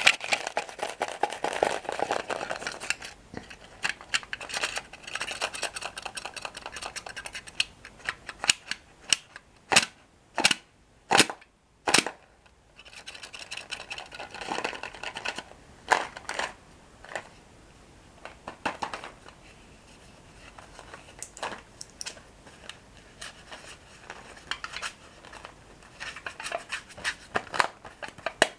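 Close-up crunching of crisp toasted bread sticks being bitten and chewed, with bursts of dense crackling and sharp single snaps between quieter pauses.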